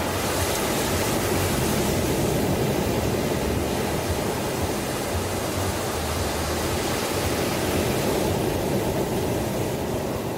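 Ocean surf: a continuous rush of breaking waves that swells twice, once near the start and again near the end.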